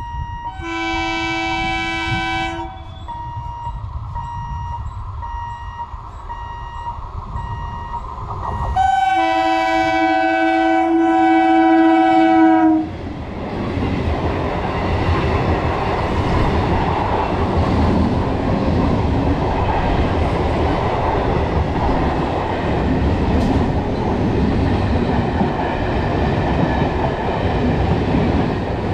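EMU local train sounding its horn twice, a short blast and then a longer, louder one of about four seconds. It then runs past close by with a steady rumble and the clatter of its coaches' wheels over the rails.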